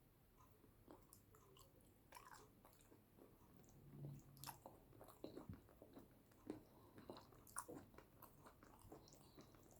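Faint, close-miked chewing and mouth sounds of a person eating yam with eggplant sauce: soft, irregular wet clicks and smacks, a little louder and busier from about halfway through.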